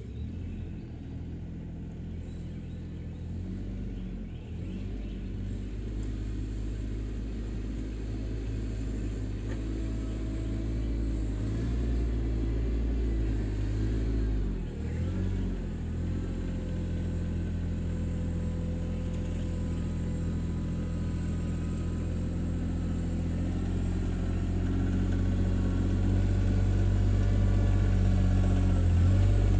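Subcompact tractor's three-cylinder Yanmar diesel engine running, dipping in pitch for a moment about halfway through and growing gradually louder toward the end.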